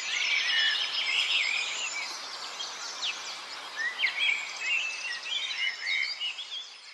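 Birds chirping and singing in short, repeated calls over a steady background hiss.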